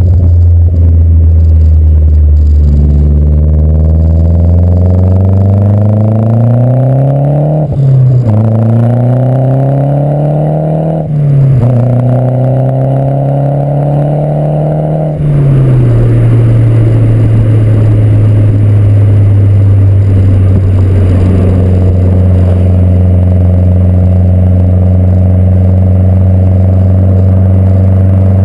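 Exhaust of a 2011 Mazdaspeed 3's turbocharged 2.3-litre four-cylinder, through a 100-cell catted downpipe, stock resonated midpipe and aftermarket axle-back. The engine pulls hard, rising in pitch through three gears with quick shifts at about 8 and 11 seconds in. About 15 seconds in the driver lifts off and it settles to a steady, lower drone.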